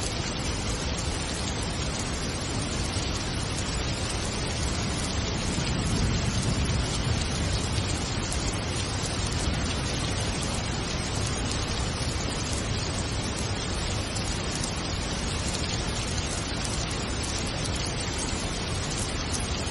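Steady rain falling, an even hiss with no individual drops standing out. A low rumble swells up briefly about six seconds in.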